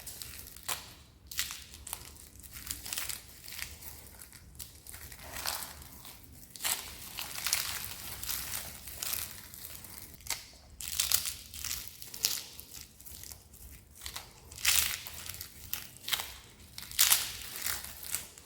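Dry soap being crushed and crumbled by hand: a continuous run of crisp, irregular crunches and crackles, with louder bursts every few seconds.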